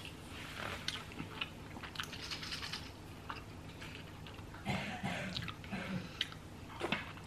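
Close-up chewing of a mouthful of toasted breakfast bagel sandwich with bacon, with many small scattered wet clicks and crunches.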